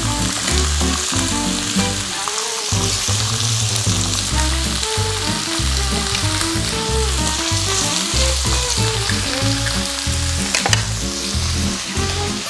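Food sizzling and frying in a hot pan, a steady hiss, with background music playing over it.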